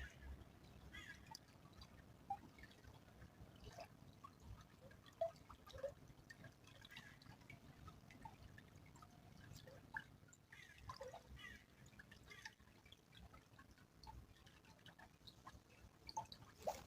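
Faint small stream trickling, with scattered water drips and plinks.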